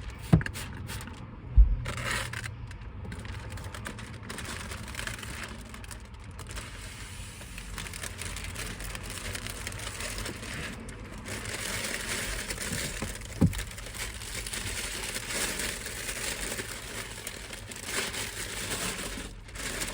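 Plastic window-tint film crinkling and rustling as it is handled and pressed, with a few sharp knocks: two in the first couple of seconds and one about two-thirds of the way through.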